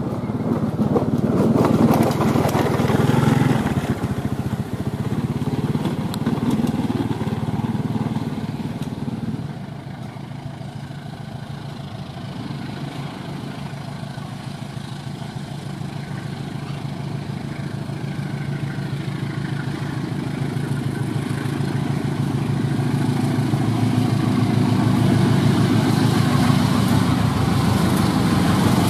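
A train passing with a steady low rumble, loudest in the first few seconds, easing off about nine seconds in and building up again near the end.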